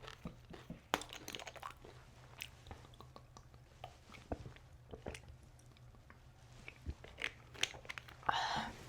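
Close-up biting and chewing of crispy, gram-flour-battered fried potato fritters (aalu chop), with irregular crackling crunches between bites.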